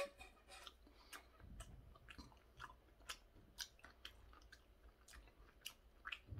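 Faint close-up chewing of the last mouthful of curry rice: soft, irregular wet mouth clicks, about one or two a second.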